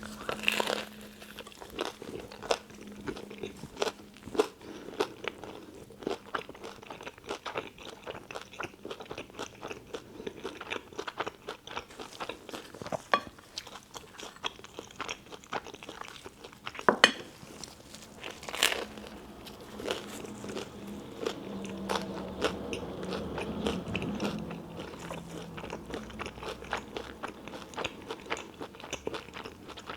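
Close-miked eating of a tuna melt sandwich: crunchy bites into the toasted bread and wet chewing. There are sharp crackly crunches all through, with louder bites about halfway through.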